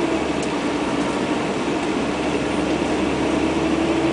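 Fire truck's engine and road noise heard from inside the cab, a steady, even hum.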